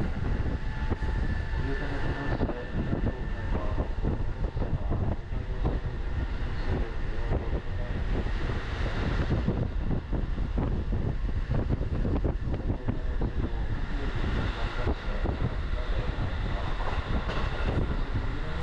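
Commuter train running at speed, heard from inside the carriage: a steady rumble of wheels on the rails with many short knocks running through it.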